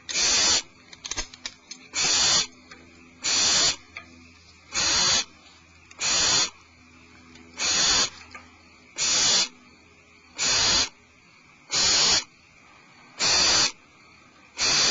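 Barn owl giving its rasping hiss-call (the 'snore' of a begging barn owl) over and over, one harsh hiss about every second and a half.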